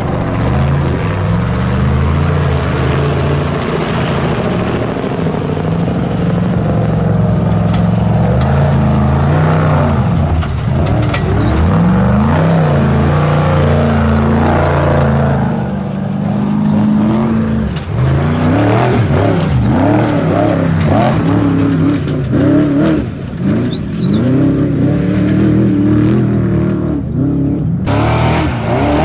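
Off-road race trucks' engines revving hard and accelerating over rough terrain, the pitch repeatedly rising and falling, over a steady droning in the first half that stops about halfway through.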